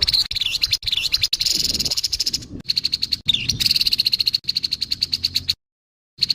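Grey-headed babbler giving its harsh call: a fast rattling chatter of short, rough repeated notes. There is a brief break about two-thirds of the way through, and near the end.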